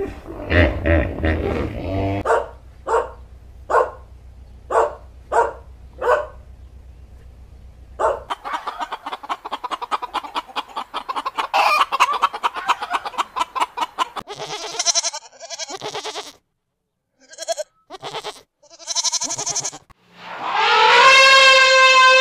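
A run of animal sounds. It opens with low, rhythmic hippo grunting, then a string of short calls about every half-second. Hens cluck busily and squawk. Near the end an African elephant trumpets loudly, its pitch rising and falling.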